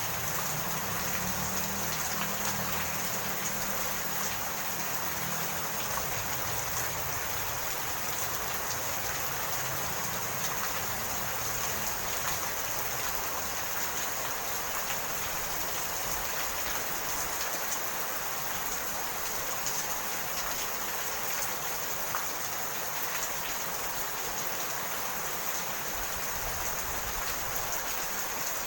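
Steady rain falling, an even dense hiss of drops. A low rumble underneath fades out over the first several seconds.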